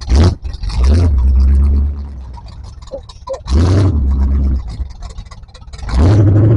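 Off-road 4x4 creeping down a steep hill with its engine running, broken by four loud rumbling bursts of about a second each over a low hum.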